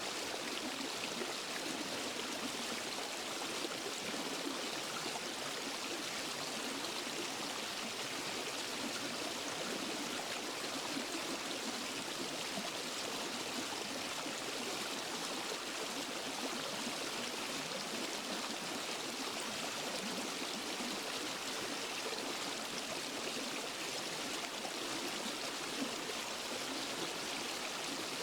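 Water of a forest waterfall and stream running steadily over rocks, an even rush with no change or break.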